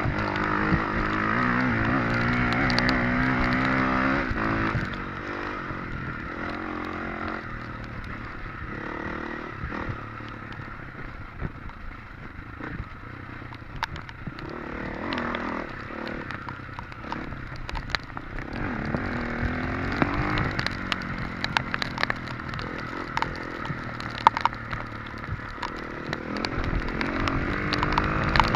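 Off-road motorcycle engine on a hare scramble course. It revs hard for the first few seconds, then drops to a lower, quieter running with frequent clatter, knocks and scrapes as the bike works over rough ground. It picks up and revs again after about twenty seconds.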